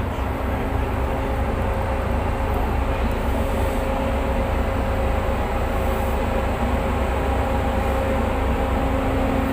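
A tugboat's diesel engines running steadily: a continuous low rumble with a steady hum.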